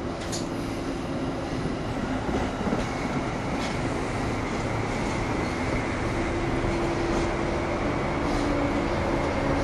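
Metro-North electric multiple-unit commuter train running past close by: a continuous rumble of wheels on rail with a steady electric hum and a few sharp clicks from the rail joints, growing a little louder as it passes.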